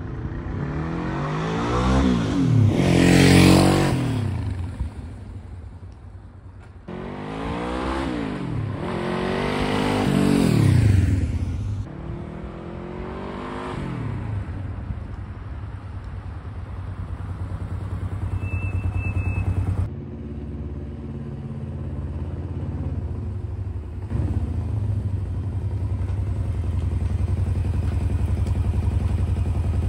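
1976 Honda CB500T's parallel-twin engine. The motorcycle rides past twice, revving and falling away, then runs steadily at low revs and idles in the last several seconds.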